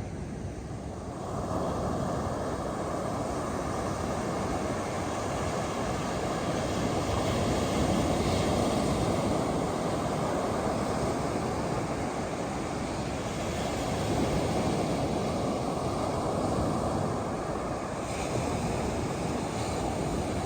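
Ocean surf breaking on a beach, a continuous rush that swells and eases every few seconds, with some wind on the microphone.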